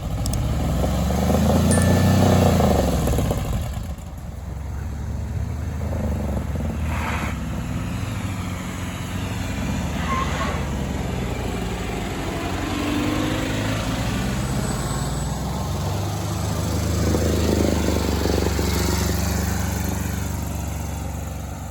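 Volkswagen Beetle's air-cooled flat-four engine running, revved up and back down about two seconds in and again near the end. The owner suspects its carburettor is fouled with dirt.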